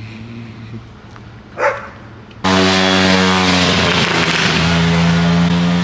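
A vehicle horn held for about four seconds, starting and cutting off abruptly about two and a half seconds in; the loudest sound here.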